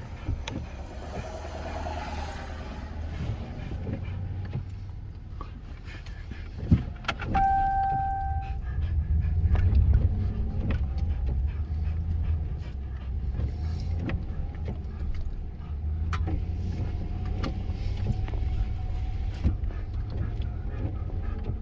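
Plow truck engine idling with a steady low rumble, with scattered knocks and clicks, and a single short electronic beep about seven seconds in.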